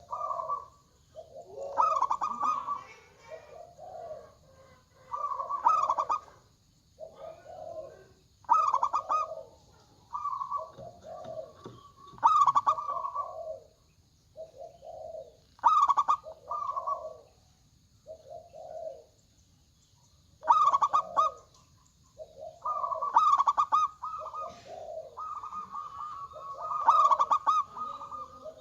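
Zebra doves (perkutut) cooing in repeated bouts of rapid, stuttering coos about every three to four seconds. The bouts come at a lower and a higher pitch that often overlap, birds answering one another, over a faint steady high hiss.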